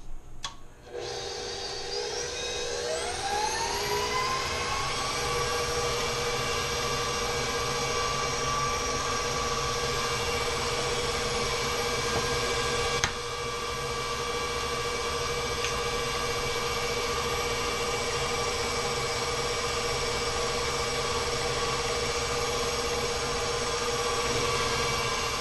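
Bowl-lift stand mixer motor starting about a second in, its whine rising in pitch over a few seconds and then running steadily at medium-high speed, creaming the cookie dough until fluffy. A single short tick about halfway through.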